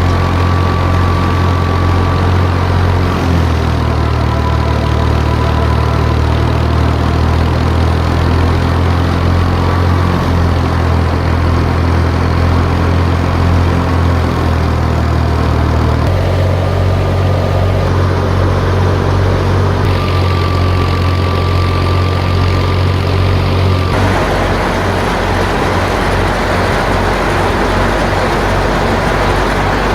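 Al-Ghazi tractor's diesel engine running steadily, driving a wheat thresher, with a faint high whine that comes and goes. The sound shifts abruptly about 3, 16 and 24 seconds in.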